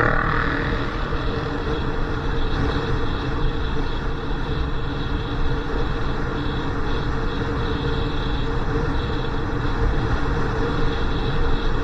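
Motorcycle on the move: the engine running steadily under a heavy wind rumble on the microphone, with a brief louder rush at the very start.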